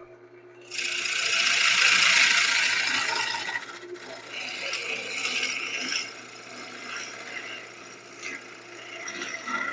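Wood lathe running while a turning tool cuts into the spinning wood blank, giving a rough scraping noise that starts about a second in, is loudest early on, then goes on unevenly and more softly.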